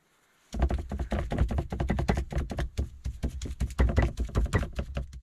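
A rapid, irregular run of sharp taps and knocks, several a second, starting about half a second in and cutting off abruptly at the end.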